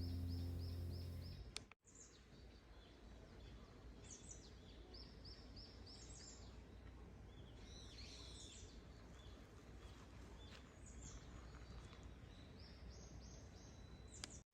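Background music ends about a second and a half in, leaving faint outdoor ambience in which a bird sings several quick runs of repeated high chirps.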